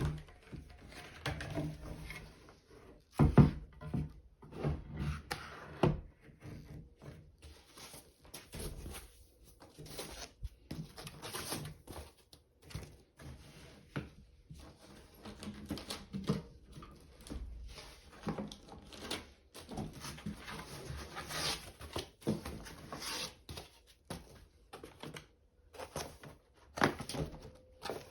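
Irregular knocks, thumps and rustling of a boxed fiber laser and its packing being handled and unpacked, with the loudest thump about three seconds in.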